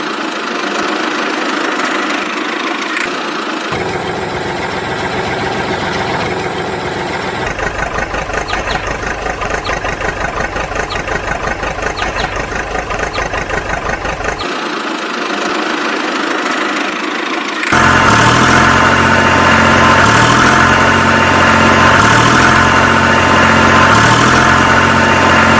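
Tractor engine running at idle with a chugging pulse. The sound changes abruptly several times and becomes louder and fuller for the last several seconds.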